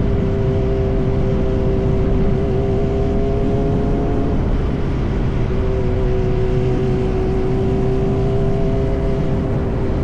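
Yamaha R1 inline-four engine running at a steady cruise through an SC-Project aftermarket exhaust. It holds an even note, easing off briefly about halfway through, over a low rushing noise.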